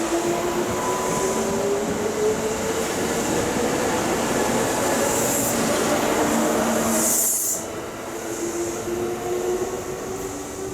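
Kintetsu 30000 series electric train pulling away, its motors whining and slowly rising in pitch over the rumble of the wheels as it gathers speed. The sound drops off about seven and a half seconds in, and a fainter rising whine carries on after.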